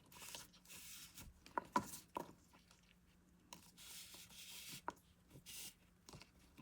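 Faint rubbing and rustling of yarn being handled on a small crocheted toy, with a few small clicks about two seconds in and again near five seconds.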